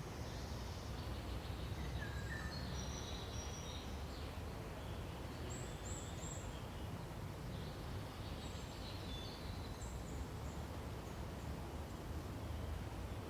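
Forest ambience: small birds give short, scattered chirps and calls over a steady low rumble.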